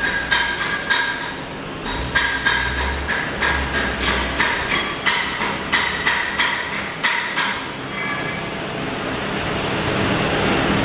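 Steel being struck repeatedly with a hammer, about two ringing metallic blows a second, as a welded test plate is chipped clean of slag. After about eight seconds the blows stop and a steady hissing noise takes over.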